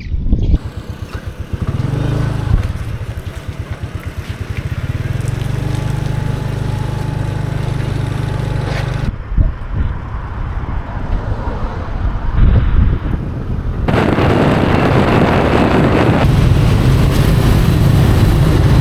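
Motor scooter engine running while riding, with a pulsing low note in the first seconds. The sound changes abruptly about nine and fourteen seconds in, and the later part is dominated by a loud rush of wind noise.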